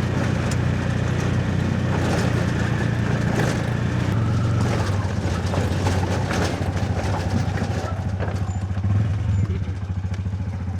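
A small engine running steadily at close range with a rapid firing pulse and a low hum, over road and wind noise.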